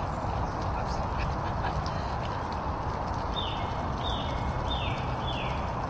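A bird calls four times in quick succession a little past halfway, each call a short falling note, over a steady rushing noise.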